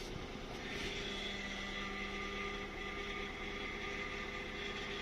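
Lexus LS400's 1UZ-FE V8 engine idling steadily after being brought back to life with a new fuel pump and repaired injector earths.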